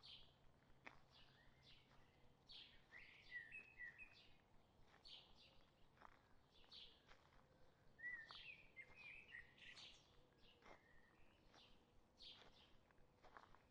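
Faint woodland birdsong: short high chirps repeated about twice a second, with a couple of lower warbling phrases about three and eight seconds in.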